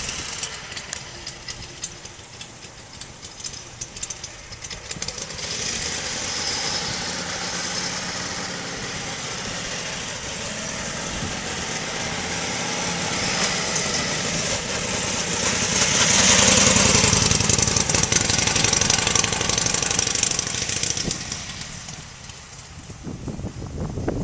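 1941 Harley-Davidson EL Knucklehead overhead-valve V-twin engine running, getting louder to a peak past the middle and fading away toward the end.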